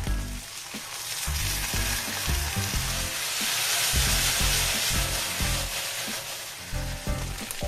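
Chicken and onion in gochujang sauce sizzling hard in a hot frying pan after a splash of liquid is poured in. The sizzle swells from about a second in and eases off near the end as the pan is tossed. Soft lo-fi background music with a steady beat runs underneath.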